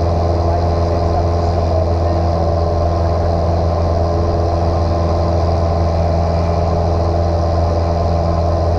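Light single-engine airplane's piston engine and propeller droning steadily, heard from inside the cockpit.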